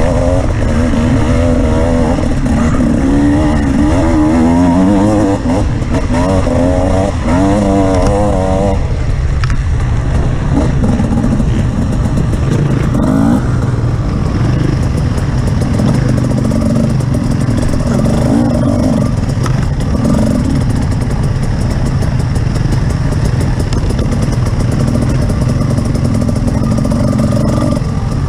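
An off-road vehicle's engine being ridden hard, its revs rising and falling quickly for the first nine seconds, then running steadier with smaller surges, over a constant rumble of rough-terrain noise.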